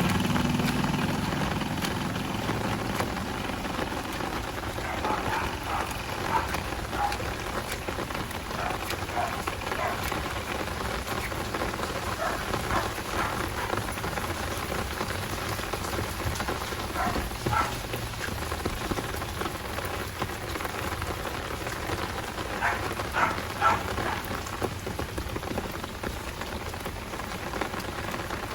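Heavy rain falling steadily as an even hiss, with a few short, brief louder sounds now and then. A passing vehicle's engine fades away in the first couple of seconds.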